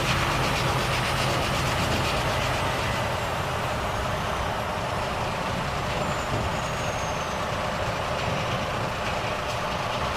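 Volvo FH truck's engine running steadily with road noise while driving, with a faint high whine slowly falling in pitch.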